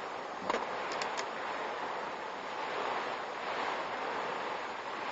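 Steady rushing noise of typhoon wind and rain picked up by a car's dashcam, with a few light clicks or knocks in the first second or so.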